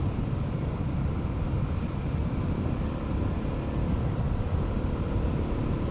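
Motorcycle engine running steadily while riding a dirt track, with wind and tyre rumble.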